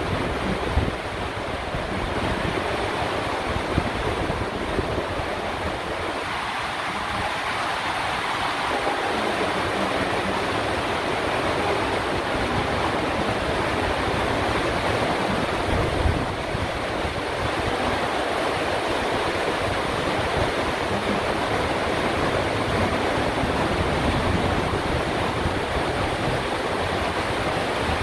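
Electric commuter train in motion, heard from aboard: a steady rushing noise with a low, uneven rumble underneath.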